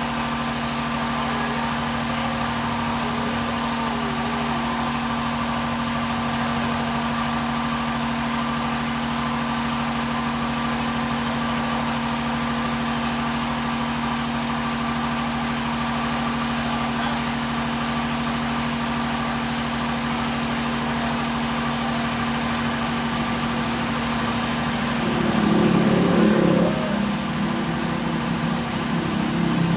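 An engine or motor running steadily, a constant hum. A louder, wavering sound rises over it for a couple of seconds near the end.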